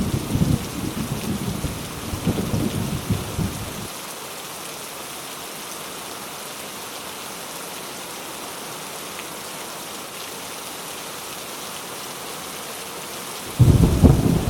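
Heavy rain falling with a steady hiss, under a low rolling thunder rumble that dies away about four seconds in and starts again abruptly near the end.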